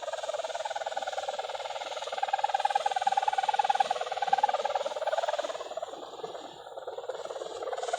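Sendaren, the bow hummer on a flying Javanese kite, droning in strong wind with a fast pulsing buzz. About two seconds in its pitch rises and it grows louder, then it sinks and fades for a moment near the end.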